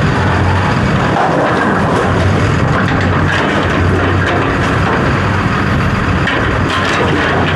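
A large engine running steadily, with a constant low hum under loud mechanical noise.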